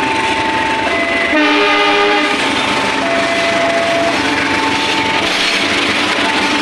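KAI CC 203 diesel-electric locomotive hauling passenger coaches passing close by, with a steady rumble of engine and wheels and a short blast of its horn about a second and a half in. A two-tone warning alternates between a higher and a lower note about every second.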